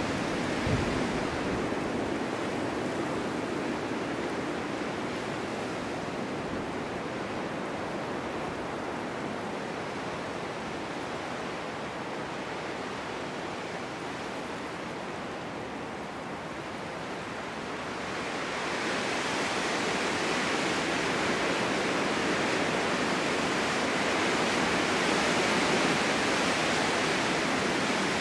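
Strong winter wind blowing, a steady rushing that eases a little mid-way and gusts up again with more hiss after about eighteen seconds.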